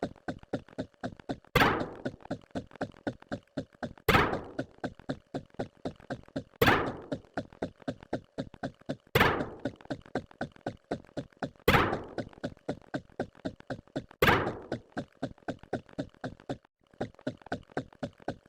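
Repeating sound effect: a loud thunk about every two and a half seconds, with a rapid run of quieter ticks between the thunks.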